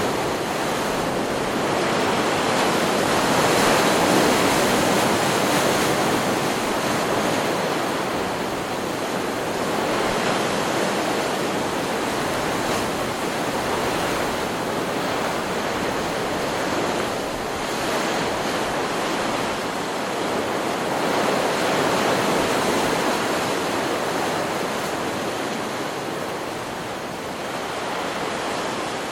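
Ocean surf from a stock beach recording: a continuous wash of breaking waves that swells and eases every several seconds.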